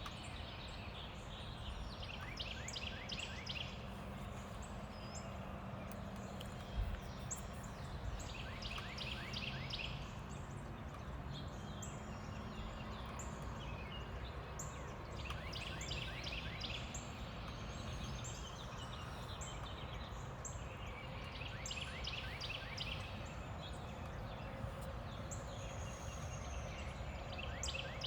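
A wild songbird singing a rapid series of high, downward-sweeping notes in bouts that come about every six seconds, over a steady low background rumble. A single short low thump about seven seconds in.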